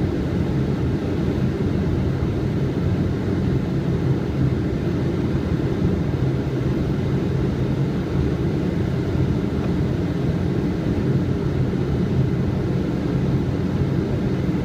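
Steady low rumble of airflow and engine noise inside a Boeing 777's flight deck on approach.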